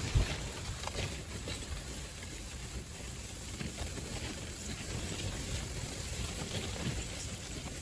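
Strong wind buffeting the microphone as a steady low rumble, with scattered faint crackles and a brief knock just after the start.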